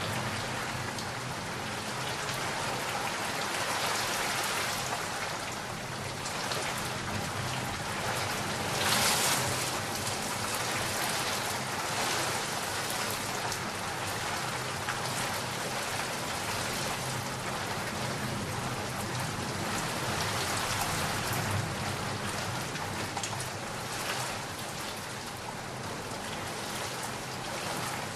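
Steady rain falling and pattering on surfaces, an even hiss throughout, with a brief louder surge about a third of the way in.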